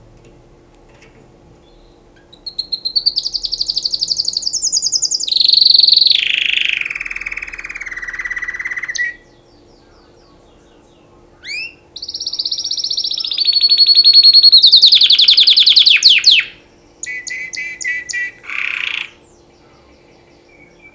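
Domestic canary singing: two long phrases of fast, rolling trills, the first stepping down in pitch in stages, with a short chirp between them and a few short trilled bursts near the end.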